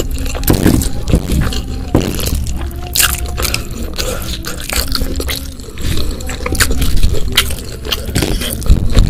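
Close-miked chewing of a mouthful of rice, eaten by hand: a run of wet smacking and clicking mouth sounds.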